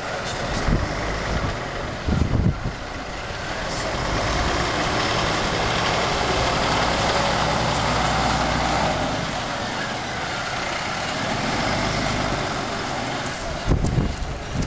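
Diesel engine of a Scania fire engine running, growing louder over several seconds and then fading away. A few low thumps are heard near the start and the end.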